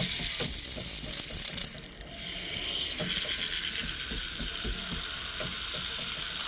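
Hand tool rasping on a small gold ring sizing piece as a groove is worked into its tip, a rapid scratchy run of strokes. About half a second in, a loud high-pitched squeal lasts about a second.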